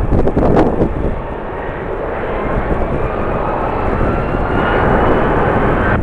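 Jet airliner engines running, with a faint whine slowly rising in pitch, under heavy wind buffeting on the microphone that surges in gusts during the first second.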